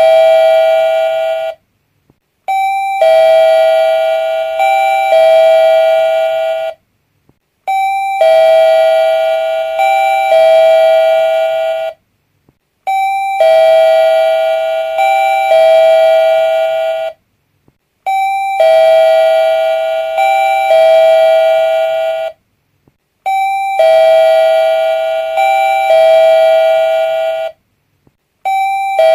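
Doorbell ringing a short chime of a few stepped notes, repeated over and over. Each ring lasts about four and a half seconds and is followed by a brief silence, about six times in all.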